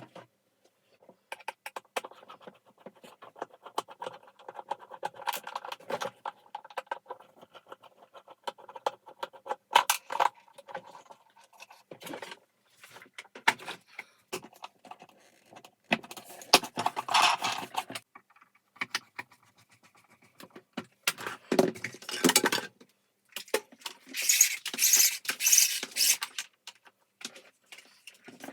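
Clicking, clattering and rattling of vacuum cleaner parts being handled during disassembly and repair, with a few longer noisy bursts, the loudest near the end.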